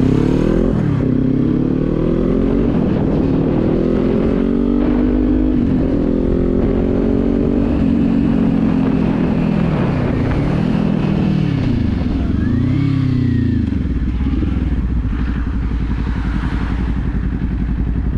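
Kawasaki Z400's parallel-twin engine under way, its note climbing and dropping again and again as it works through the gears, with two quick dips and recoveries around the middle. In the last few seconds it settles to a low, steady note.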